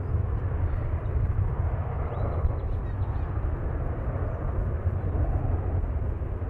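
Steady rumble of jet airliner engines, with wind buffeting the microphone.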